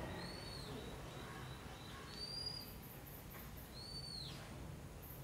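A bird calling several times: short high calls that rise and then fall in pitch, each under a second long, coming about every one to two seconds over a faint low hum.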